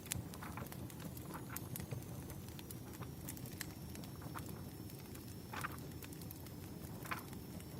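Wood fire crackling: irregular sharp pops and snaps over a steady low background noise.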